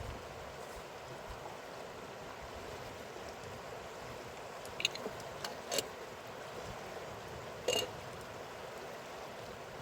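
Mountain river flowing with a steady rush of water. A few short, sharp clicks or knocks sound over it, the loudest about three-quarters of the way through.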